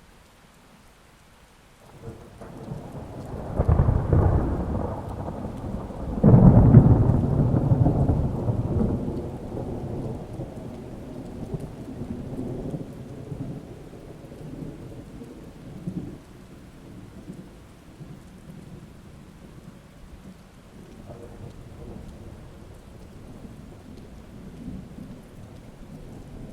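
Thunder over steady rain. A rumble builds about two seconds in, and a louder clap comes around six seconds in. It then rolls away slowly over several seconds, with low rumbles continuing under the rain.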